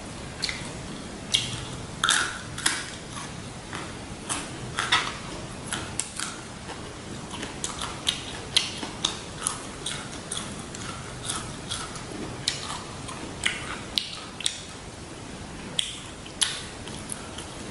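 Close-miked chewing of shrimp, pork and raw vegetables such as carrot sticks: irregular wet mouth clicks, smacks and crunches, several a second.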